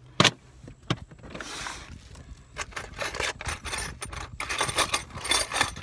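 Sharp metallic clicks followed by irregular scraping and rattling, like small metal hardware being handled and clinking.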